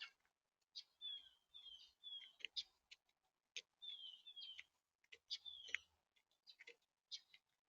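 Birds feeding at a seed feeder: sharp clicks and taps of beaks pecking at seed, mixed with short, repeated falling chirps.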